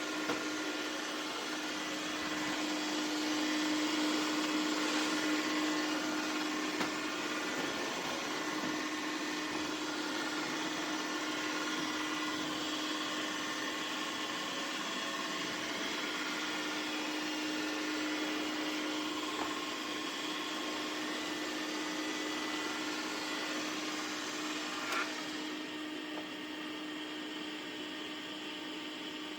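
Dreame X50 Ultra robot vacuum running its suction motor: a steady whirring hiss over a constant hum. About 25 seconds in there is a click, and the high hiss thins out.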